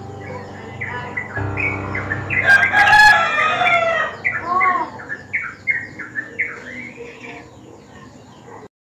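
Birds chirping and calling in quick short notes, with a louder burst of calls about three seconds in; the sound cuts off abruptly near the end.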